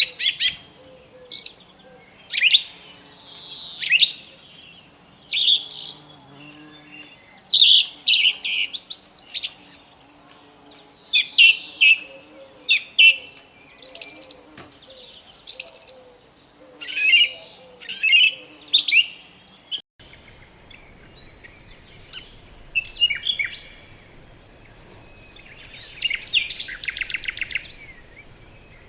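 Birds calling in short, sharp chirps and downward-sweeping whistles, about one call a second. About two-thirds of the way through the background changes, and near the end a bird gives a fast trill.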